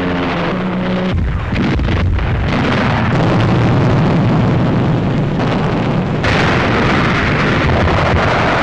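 Newsreel battle soundtrack of mortar and shell explosions: a dense, continuous rumble with a few sharp blasts in its first couple of seconds. It follows a held orchestral chord that cuts off about a second in.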